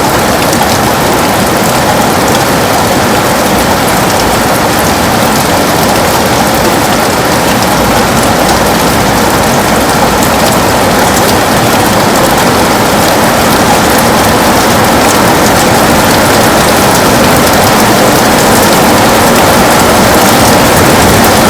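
Heavy rain falling on a window, a dense, even patter of drops, growing slightly louder over the span.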